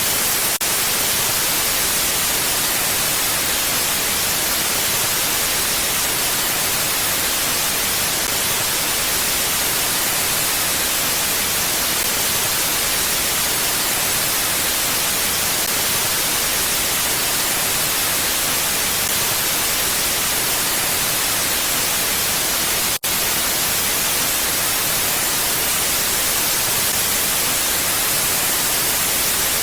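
Steady rushing wind: an even, unchanging hiss weighted toward high pitches, without gusts. It drops out for an instant about three-quarters of the way through.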